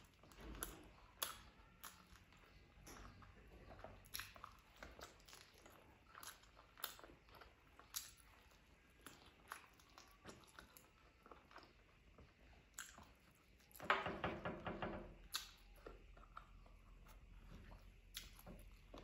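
A person chewing and biting curried chicken meat off the bone: faint, wet mouth clicks and smacks. About fourteen seconds in there is a louder burst of mouth noise lasting a second or two.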